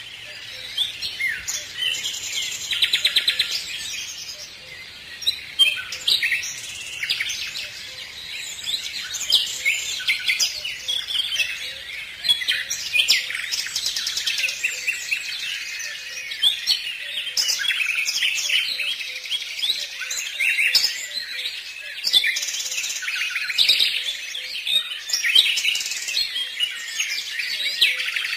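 Many small birds chirping and singing at once in a dense, unbroken chorus of overlapping high chirps and trills.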